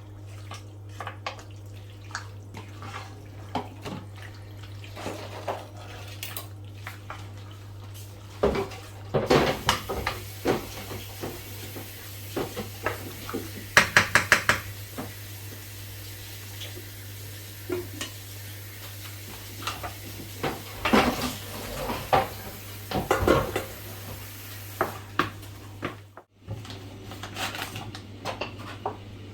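A spoon scraping and knocking against a cooking pot while liver curry is stirred, in irregular bursts of clatter, loudest in a few clusters partway through. A steady low hum runs underneath.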